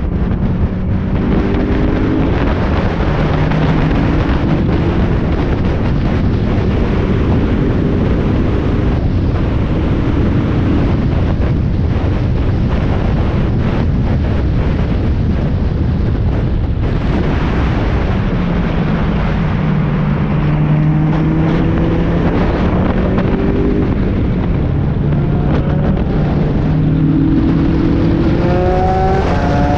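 Spec Miata race car's four-cylinder engine at speed under heavy wind and road noise. The engine note climbs and drops back several times as it accelerates and shifts, and rises steadily again near the end.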